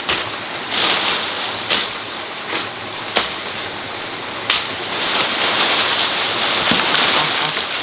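Steady rain falling, with a few sharper taps from drops striking something close by.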